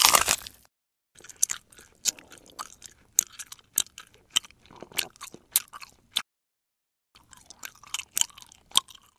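Close-up chewing and biting of a cooked pig's foot: short sharp crunchy clicks, several a second, in two spells with about a second's break in the middle. A brief loud rush of noise opens it.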